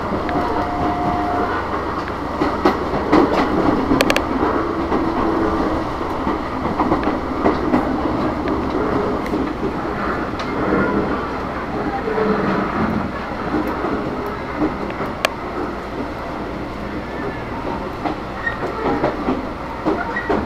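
Electric commuter train (KRL Commuterline multiple unit) running along the track, heard from inside the carriage: a steady rumble of wheels and running gear with a few sharp clicks from the rails.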